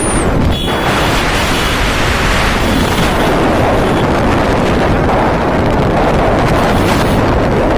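Heavy wind rumble buffeting the microphone on a moving motorbike, a loud, steady roar with no break.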